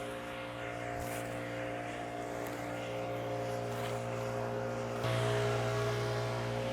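A machine's engine running steadily at constant speed, growing louder about five seconds in.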